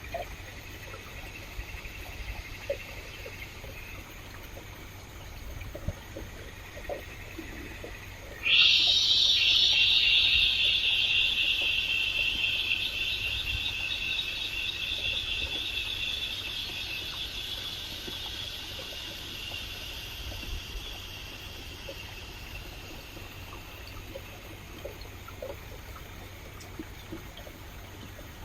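A loud, high, steady buzzing call from a wild animal starts suddenly about eight seconds in and slowly fades away over the next fifteen seconds. Under it runs a faint trickle of stream water with a few scattered small ticks.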